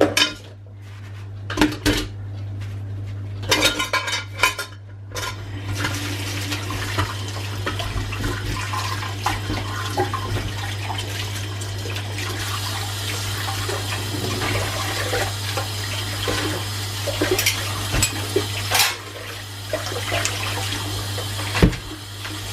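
Washing up at a kitchen sink: dishes and cutlery clatter for the first few seconds, then the tap runs steadily with occasional clinks of crockery. A steady low hum sits underneath.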